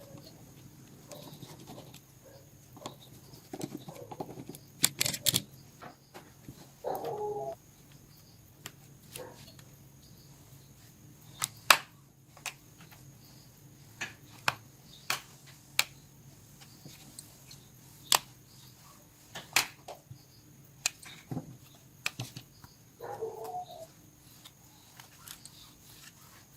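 Scattered sharp clicks and taps of small tools and plastic parts while a Nokia 105 (2019) keypad phone is being taken apart, over a faint steady hum. Twice, about seven seconds in and again near the end, there is a short pitched sound lasting under a second.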